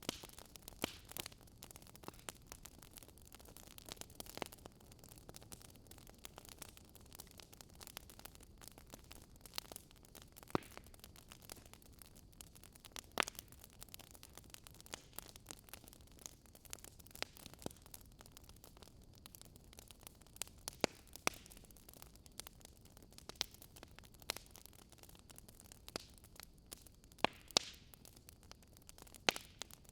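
Wood fire crackling: a faint steady hiss with irregular sharp pops and snaps, a few of them louder.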